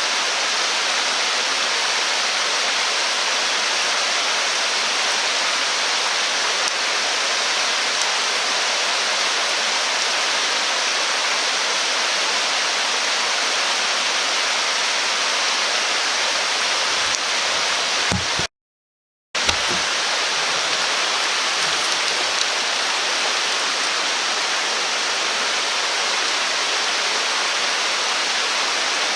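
Steady rushing of a stream or river flowing, constant throughout, with a break of under a second where the sound cuts out just past halfway.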